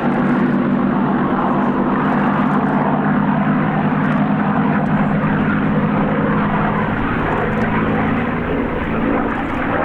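Piston-engined propeller aircraft in flight, engines running steadily with a deep, even tone, easing off slightly about seven seconds in.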